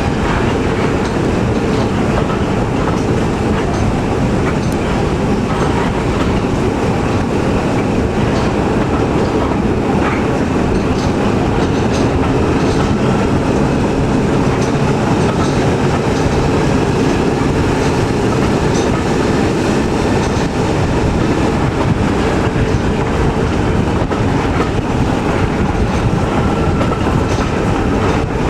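Heritage train running along the line, heard from a carriage hauled by a Class 14 diesel-hydraulic locomotive: a steady rumble with the wheels clicking over rail joints.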